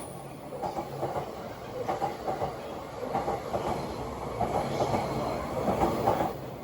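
Electric train running past with its wheels clattering over rail joints in repeated groups, over a steady low hum.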